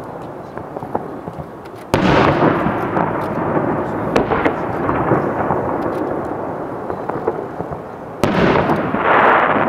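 Fireworks shells bursting in the sky: two loud booms, about two seconds in and again near the end, each followed by a long rolling rumble, with smaller sharp pops and crackles in between.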